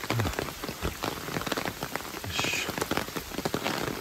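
Steady rain falling close around the microphone, heard as a hiss with many small, irregular drop clicks. A brief higher sound comes a little past halfway.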